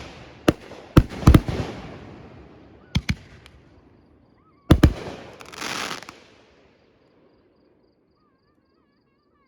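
Fireworks display: aerial shells bursting in sharp booms, some in quick pairs, with crackling after them. The last pair of bursts comes about five seconds in, and its crackle dies away soon after.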